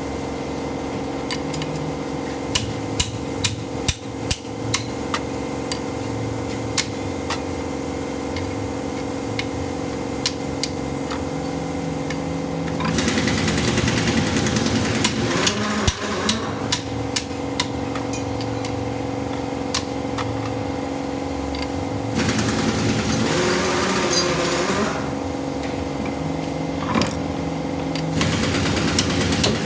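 Repeated hammer blows on metal over a steady engine hum, with louder stretches of rough mechanical noise starting about halfway through and twice more near the end.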